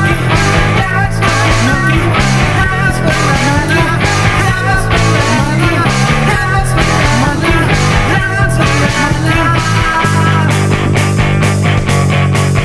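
Home-recorded grunge-style rock song: distorted guitar, bass and drums with wailing, deliberately out-of-tune vocals, playing steadily through to the end of the piece.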